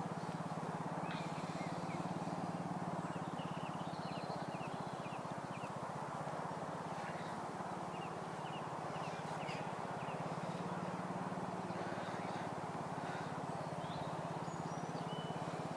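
Outdoor ambience: a steady low hum with small birds chirping in short quick runs, a few seconds in and again in the middle.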